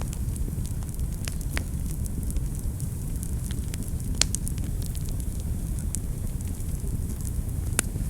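Wood fire burning in a fireplace: a steady low rumble of the flames with frequent sharp crackles and pops, a louder pop about four seconds in and another near the end.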